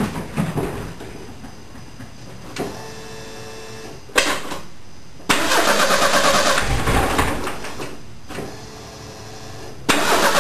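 Ford 2.3-litre turbo four-cylinder being cranked on the starter at its first start, catching and running roughly in loud stretches from about five to eight seconds in and again near the end, with a dip between. The ignition timing is not yet set.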